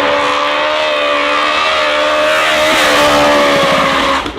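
Car engine running loud at high, nearly steady revs, its pitch holding level before cutting off suddenly near the end.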